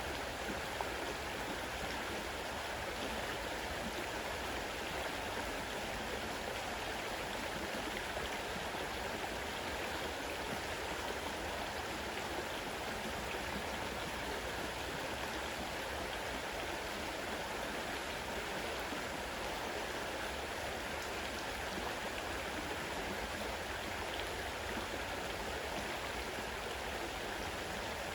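A fast-running river rushing steadily over its bed, a continuous even wash of water noise.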